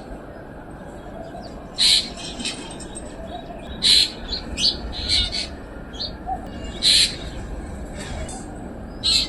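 Black drongo calling: loud short calls repeated every two to three seconds, with quicker, fainter notes in between.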